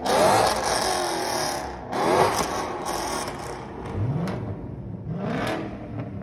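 A car engine accelerating hard, its pitch climbing in about four rising sweeps, getting quieter as it pulls away.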